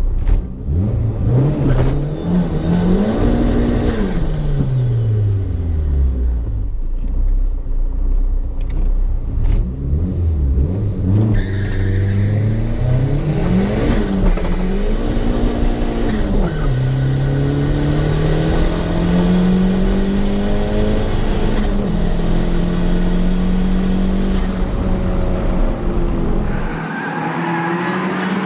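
Inside the cabin of a Mk1 Volkswagen Golf with a 20-valve turbo engine on a quarter-mile drag run: the engine is revved up and down several times, then pulls hard through the gears with two upshifts and a high whine that climbs with the revs, and the engine lets off near the end.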